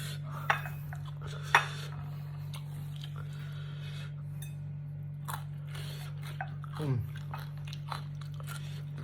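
Close mouth sounds of someone biting and chewing jengkol (dogfruit beans). Two sharp bites come about half a second and a second and a half in, followed by quieter chewing clicks. A short 'mm' that falls in pitch comes near the end, over a steady low hum.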